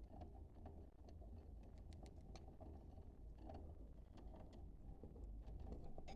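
Near silence: a low steady hum with faint, scattered short ticks.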